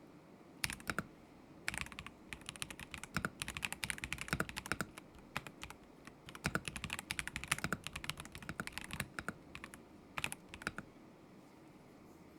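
Typing on a KZZI K75 Pro mechanical keyboard with Moment linear switches: a couple of keystrokes about a second in, then a fast run of clacking keystrokes for several seconds, a short pause, a few more keys, and it stops near the end.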